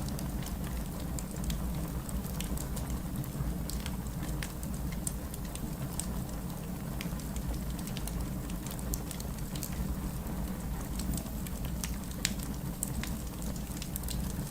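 Steady heavy rain mixed with a crackling wood fire: a constant low rumble under frequent small sharp pops and ticks.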